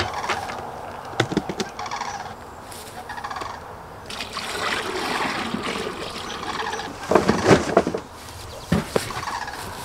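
Repeated wavering bird calls, with a cluster of loud knocks and thumps about seven seconds in as beekeeping gear is handled.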